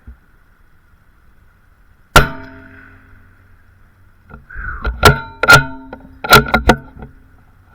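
Rimfire rifle shots, each followed by a metallic ring. One shot comes about two seconds in, then a quick run of four or five between about five and seven seconds in.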